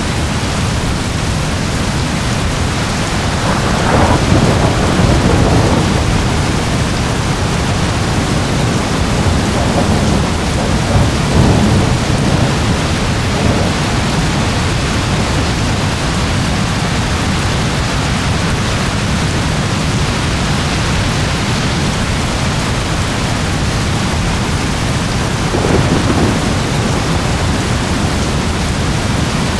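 Steady heavy rain with rolls of thunder rumbling through it, the strongest about four seconds in, again around ten to twelve seconds, and briefly near the end.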